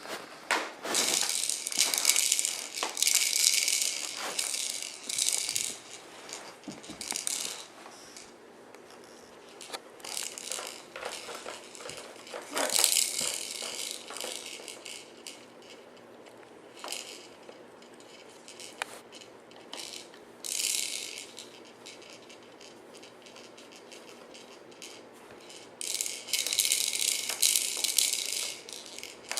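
Baby jumperoo's plastic toys and beads rattling and clattering as the baby bounces in it. The rattling comes in bursts several seconds long, with quieter pauses between.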